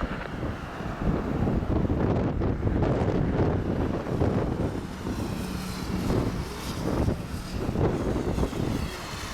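Airliner engines droning as the aircraft flies by, over a gusty rumble of strong wind on the microphone. From about halfway, a higher whine sweeps and shifts in pitch as the aircraft passes.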